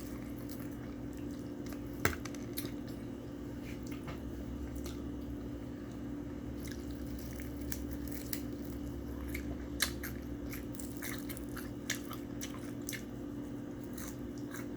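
Close-miked eating: chewing, biting and wet mouth smacks, with a few sharper clicks, over a steady low hum.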